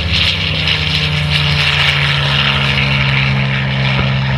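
Radial-engined propeller trainer aircraft in flight, a steady engine drone with propeller noise.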